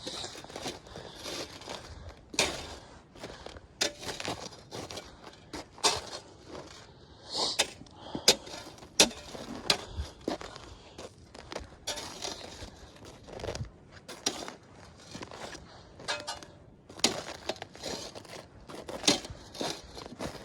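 Footsteps crunching through icy, crusted snow at an uneven pace, each step a short sharp crunch, with a few louder cracks in the middle.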